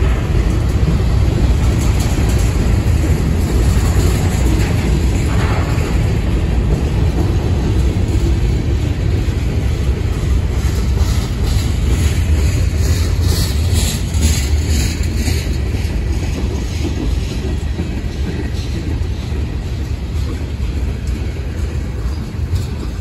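Freight cars of a mixed freight train, covered hoppers and tank cars, rolling past on the near track: a steady rumble of steel wheels on rail that eases off slightly near the end.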